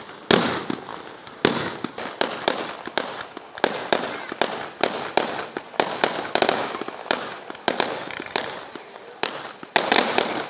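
Fireworks going off in an irregular, rapid series of sharp bangs, about two or three a second, with crackling between them. The loudest bangs come near the start and again near the end.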